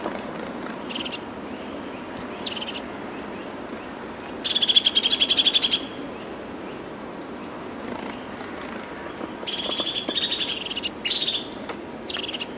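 Small birds calling, with short high chirps and two rapid high trills of a second or two each, about four seconds in and again near ten seconds, over a steady background hiss.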